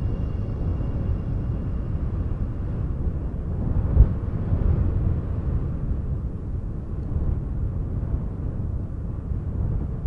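Strong wind buffeting the microphone outdoors: a steady low rumble that swells and eases, with one sharp thump about four seconds in.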